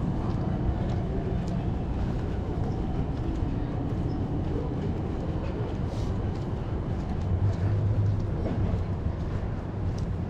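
Amsterdam city tram running on street rails: a steady low rumble with a few faint clicks, swelling a little about seven to eight seconds in.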